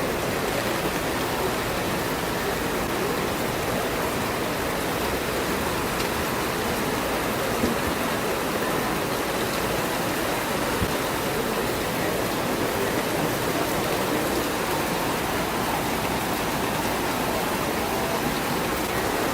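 Heavy downpour: a steady, even rush of rain.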